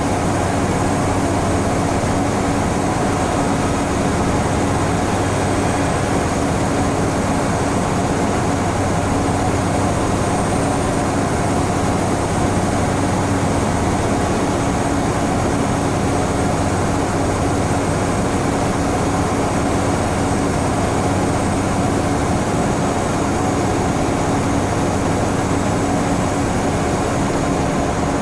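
Scania N94UB Omnicity single-deck bus heard from inside, running at a steady speed: its nine-litre five-cylinder diesel holding a constant engine note over road and tyre noise.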